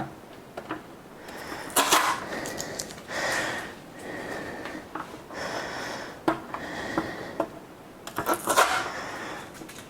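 Adhesive packing tape being peeled off a plastic coffee machine in several short rasping pulls, with scattered plastic clicks and handling noise.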